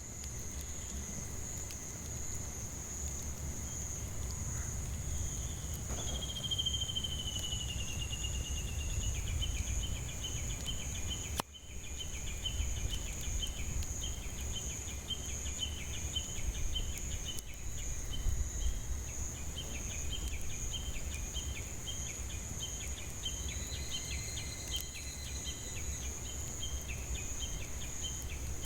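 Cicadas droning in a steady high shrill. From about six seconds a second call slides down and then runs on as a fast repeating pulse, over a low rumble.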